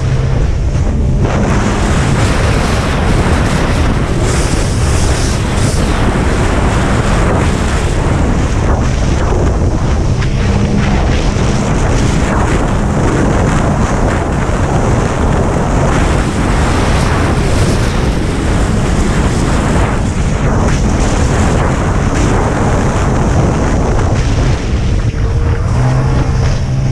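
Racing jet ski running hard, its engine noise mixed with rushing water and heavy wind buffeting the microphone, steady and loud throughout.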